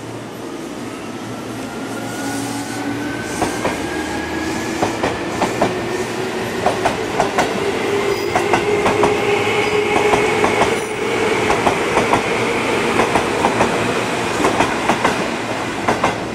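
Seibu 2000-series electric train accelerating away, its traction motors giving a rising whine. From a few seconds in, the wheels clack sharply, often in pairs, over rail joints and points.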